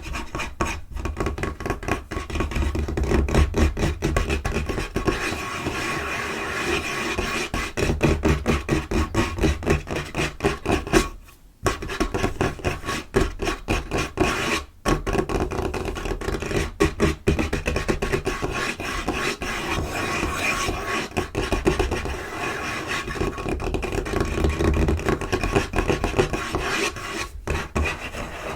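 Hands scratching and tapping fast on a tabletop: a dense, continuous run of quick scrapes and taps, broken by a short pause about eleven seconds in.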